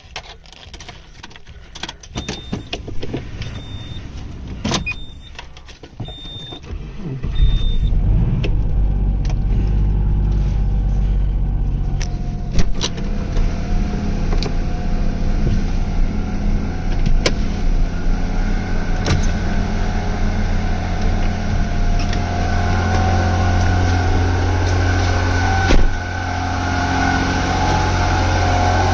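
Scattered clicks and a high electronic beep repeating about six times, then about seven seconds in the 1992 Subaru SVX's 3.3-litre flat-six starts from cold and settles into a steady idle.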